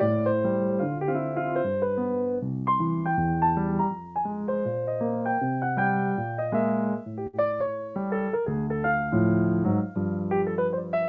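Solo piano playing slow chords over a moving bass line.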